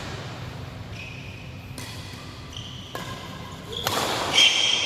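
Badminton rally: sharp racket strikes on the shuttlecock about a second apart, with high squeaks of court shoes on the floor, loudest near the end.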